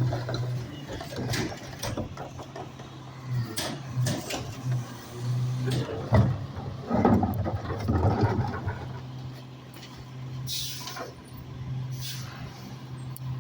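Rear-loader garbage truck running with a steady hum, with repeated clanks and knocks from its mechanism and a short hiss of air about ten and a half seconds in.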